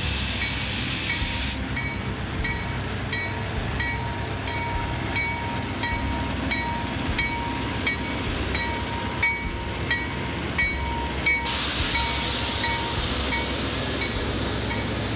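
Train running by with a steady rumble and a bell ringing about one and a half times a second. A hissing rush of noise is heard at the start and returns near the end.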